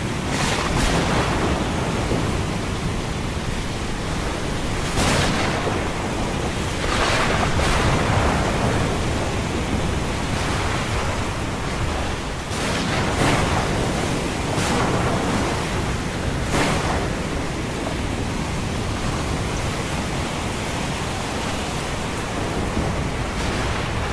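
Ocean surf washing steadily under a deep low rumble, with waves breaking in separate surges every couple of seconds, about nine times.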